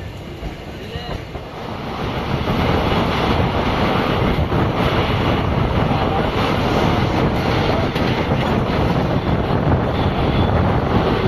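12348 Sahid Superfast Express running on the track, heard from a coach window: a steady rush of wheel-on-rail rumble with wind on the microphone, getting louder about two seconds in and then holding.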